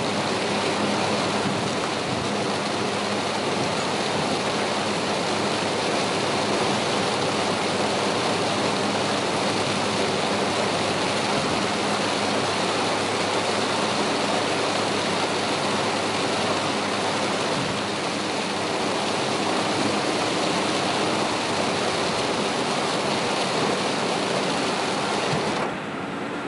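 Heavy rain and road spray on a moving car, heard inside the cabin as a loud, steady rush with a low road drone beneath. Near the end the hiss drops away sharply as the car drives into a tunnel, out of the rain.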